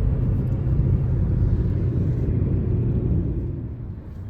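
Steady low rumble of a car on the move, engine and road noise, easing off a little near the end.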